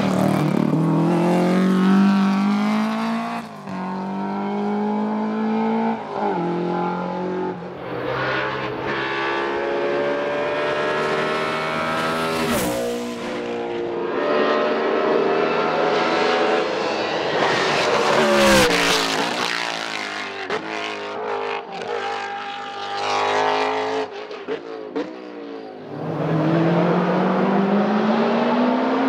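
Hillclimb racing cars at full throttle in several passes, each engine rising steadily in pitch and dropping sharply at every upshift. Two short sharp cracks come in the middle.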